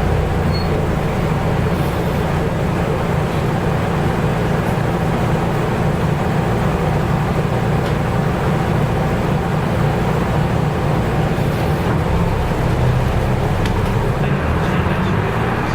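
Nissan Diesel U-UA440LSN city bus running, heard from inside the cabin: a steady diesel engine hum with road and body noise.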